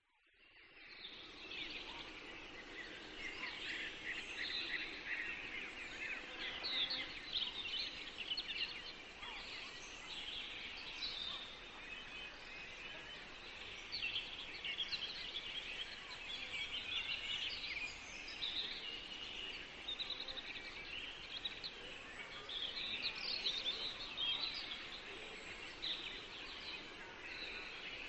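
A chorus of many small songbirds singing together, a dense, continuous mix of quick high chirps and trills over a soft background hush. It fades in over the first second or two.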